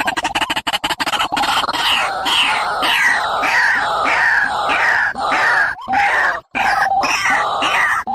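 A bird calling in a fast series of downward-slurred notes, about two a second, with brief breaks in the sound partway through. It is a recorded call of the kind played to lure birds into traps.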